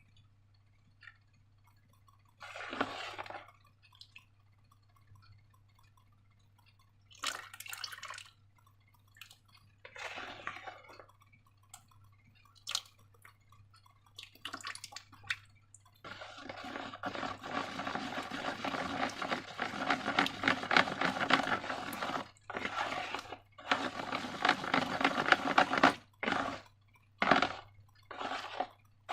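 Wet slime being worked by hand: separate short squelches and drips, then from about halfway a long run of dense, crackly squishing with a few brief pauses, ending in short squelches.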